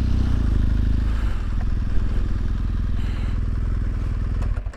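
BMW R1200GS Adventure's boxer-twin engine running steadily at low speed, easing off slightly about a second in, then cutting off abruptly just before the end.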